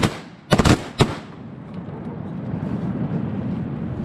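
Shotgun shots: a quick pair about half a second in and another about a second in, then a steady low background noise.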